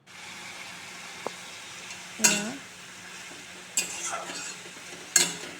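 Fiddlehead fern greens frying in oil in a kadai, with a steady sizzle. A spatula scrapes and clatters against the pan three times: about two seconds in, around four seconds, and near the end.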